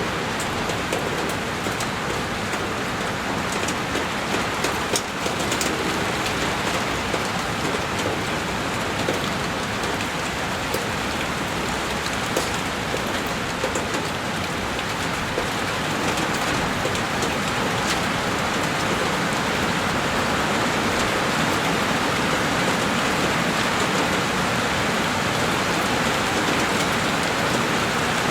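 Heavy rain falling steadily on a window pane, with scattered sharper drop ticks over a constant wash.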